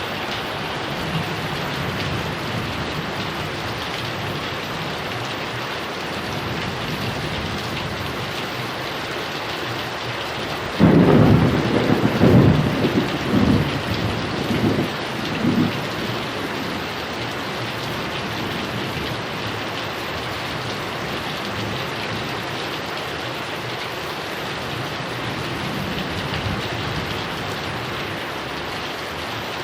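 Heavy rain falling steadily with a constant hiss. About a third of the way in, a clap of thunder breaks suddenly and rolls in several rumbles for about five seconds before fading back under the rain.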